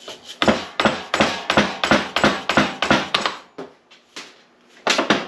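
Hammer blows on metal parts of an NP205 transfer case: a quick run of about a dozen strikes, two or three a second, then a few more near the end.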